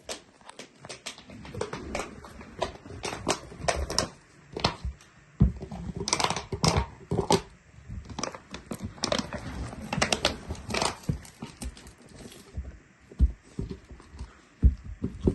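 A Central Asian Shepherd puppy moving about close by: an irregular run of scuffles, knocks and thumps.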